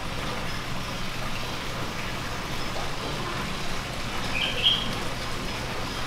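Steady low hum and hiss of an indoor aviary's room tone, with one short rising bird chirp about four and a half seconds in.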